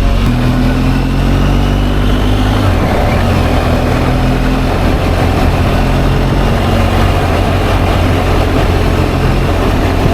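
BMW R1250 GS boxer-twin motorcycle engine running under way, its pitch rising for about two and a half seconds and then dropping suddenly, with steady wind rush over the microphone.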